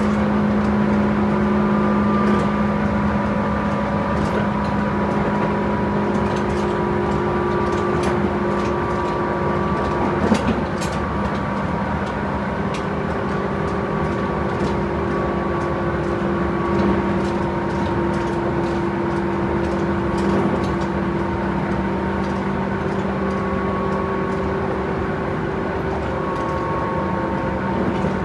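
Tobu 10030-series electric commuter train heard from inside the car while running at speed: a steady rumble from the wheels and running gear with a low hum and a few held tones, scattered light clicks, and one sharp knock about ten seconds in.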